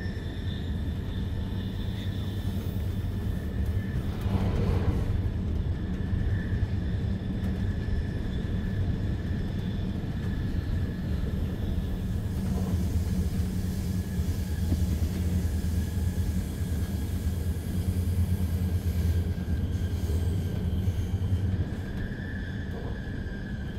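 Interior of a Zürich S-Bahn DPZ double-deck train hauled by Re 450 locomotives, running along the track: a steady low rumble with a faint high whine above it. The rumble eases slightly near the end.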